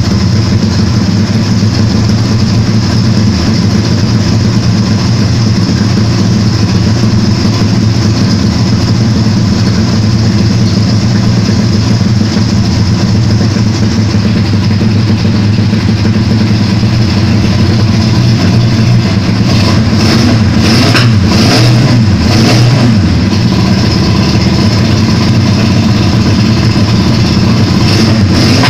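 Custom four-cylinder engine running steadily and loud, close up, while it is being tuned. A few short clicks sound about two-thirds of the way through.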